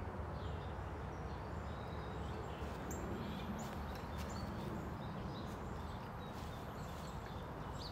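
Outdoor ambience: small birds chirping in short, scattered calls over a steady low rumble, with a few sharp clicks.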